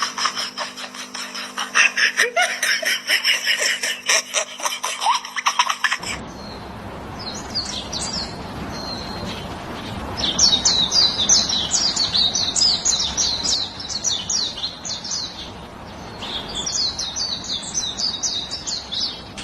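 Small birds chirping in quick high runs over a steady hiss. Before that, about six seconds of dense, rapid chattering over a low steady hum ends at a sudden cut.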